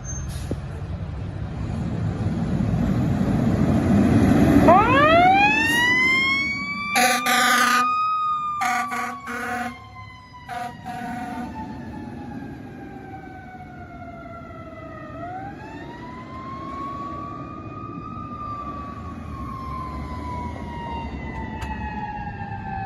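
Fire engine siren winding up to a wail, sliding slowly down in pitch, then winding up and falling again. Several short horn blasts cut in between about seven and eleven seconds in, over the low rumble of the truck's engine.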